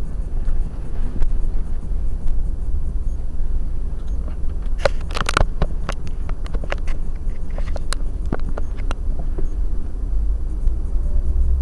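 Car on the road heard through a GS8000L dash camera's built-in microphone: a steady low rumble of engine and road. A burst of sharp clicks and knocks comes about five seconds in, followed by scattered ticks for a few seconds.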